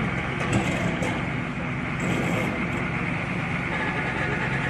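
Heavy machinery engine running steadily, with a few short knocks about half a second to a second in.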